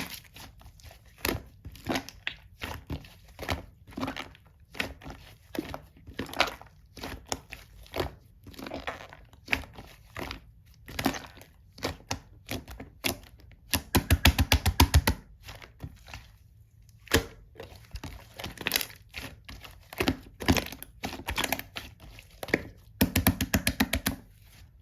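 Slime being squished and pressed, giving irregular sticky clicks and pops, with two runs of rapid popping, one near the middle and one near the end.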